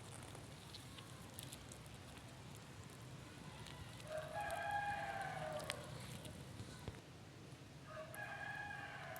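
A rooster crowing twice, each crow a drawn-out call of about two seconds, the second starting near the end.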